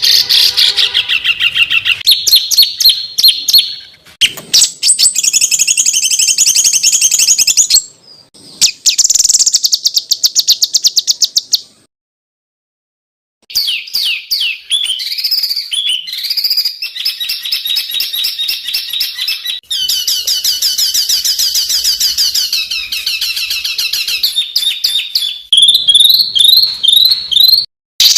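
Songbirds singing dense, fast trains of repeated harsh notes, the rapid-fire 'tembakan' phrases used in masteran training recordings. The song comes in several abruptly spliced segments, with a silent break of about a second and a half near the middle.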